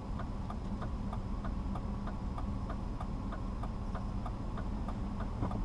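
Steady rapid clicking, about four clicks a second, typical of a car's turn-signal indicator relay, over a low steady hum of the car's engine and road noise heard inside the cabin.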